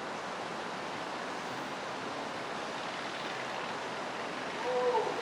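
Steady rushing noise of storm wind and rain. A short pitched sound comes near the end.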